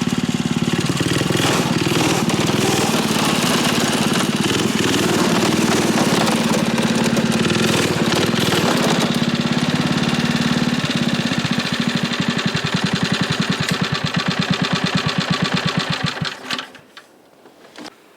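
Small single-cylinder Tecumseh H35 four-stroke engine running steadily; its firing beats slow down and it stops near the end.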